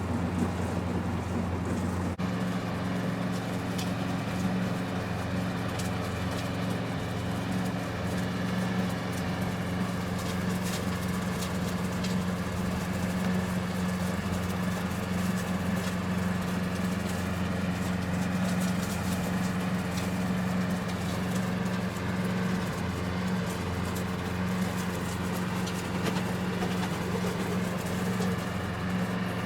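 A steady low motor hum, with faint scattered clicks over it.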